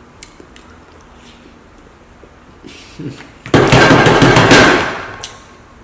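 Soft mouth smacks and clicks of close-miked eating. About three and a half seconds in comes a loud crackling burst of rapid clicks lasting about a second and a half, then fading.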